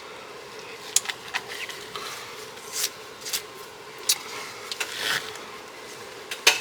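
Hands-on work fitting a new serpentine drive belt over the engine pulleys: scattered sharp clicks and knocks with short rubbing and scraping of the belt and parts, the loudest click just before the end.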